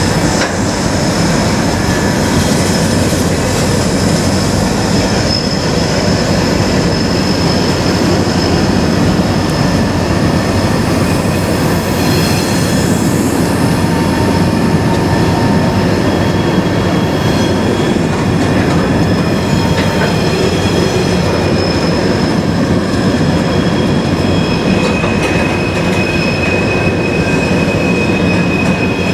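Freight cars rolling past, with wheels squealing against the rail in thin, high tones that come and go over the steady rumble.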